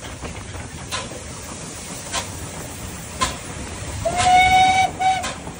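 A small train rolling along, its wheels clicking over rail joints about once a second. About four seconds in its whistle sounds, one long steady note and then a short one.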